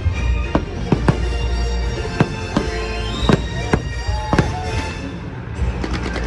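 Fireworks bursting in a quick series of sharp bangs, two or three a second, over show music, with rising whistles from shells climbing about three seconds in and again near the end.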